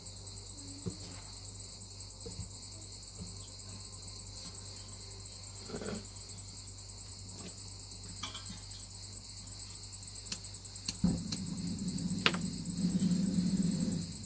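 Crickets chirping in a steady, fast-pulsing high trill. A few light knocks, and a low hum joins about eleven seconds in.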